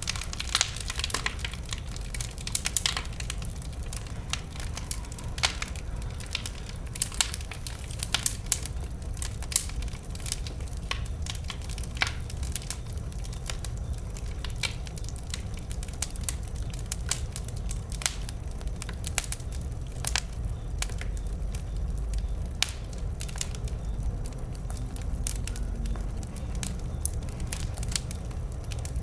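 Wood burning in a bonfire, crackling with frequent irregular sharp pops over a low steady rumble.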